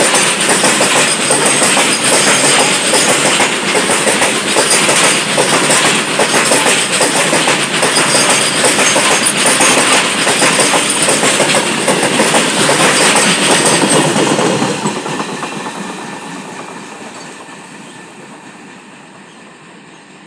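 Long freight train of open-top steel wagons rolling past at speed, a loud rumbling rush with the wheels clattering on the rails. The sound fades away steadily over the last several seconds as the train draws off.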